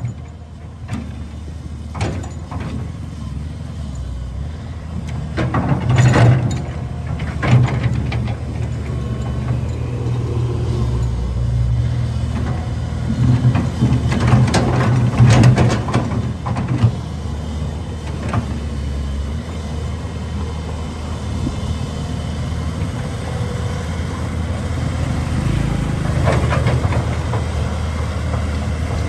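Cat 320 excavator's diesel engine running steadily under work, louder in stretches as the hydraulics are loaded. Scattered sharp clanks and knocks come about 2 s in, around 6 and 7.5 s, several between 14 and 16 s, and again near the end.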